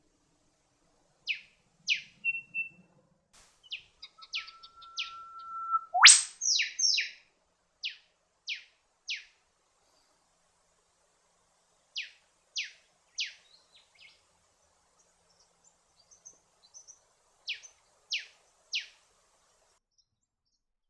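Wild birds calling: a series of short, sharp, downward-sweeping notes, mostly in twos and threes with pauses between. About four seconds in comes a held steady whistle that snaps up into a sudden high whip-like sweep, the loudest sound.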